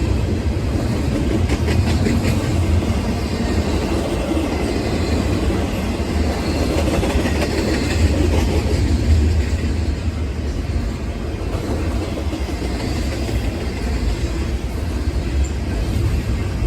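A train's cars rolling past on the rails, their wheels making a steady, continuous rumble.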